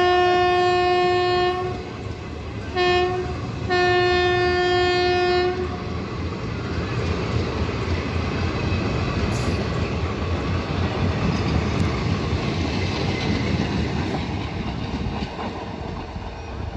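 Indian Railways passenger train passing at speed. Its horn sounds three times in the first six seconds, long, short, then long again. After that the coaches rumble and clatter steadily over the rail joints.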